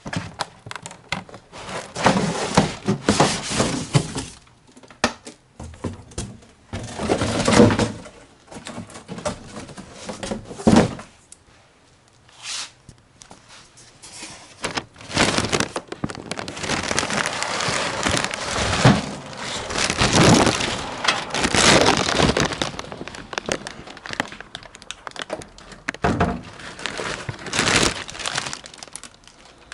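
Cardboard and plastic packing being handled as a toaster oven is unboxed: irregular bursts of rustling, crinkling and scraping with occasional thunks, and short pauses between them.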